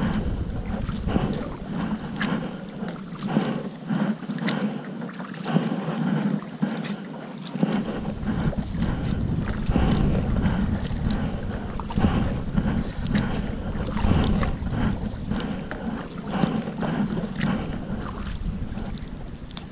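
Paddling a Dagger Axis kayak in wind: paddle splashes and water slapping and lapping against the hull in an irregular patter, with wind buffeting the microphone. The wind rumble drops away from about two seconds in to about eight seconds in, then returns.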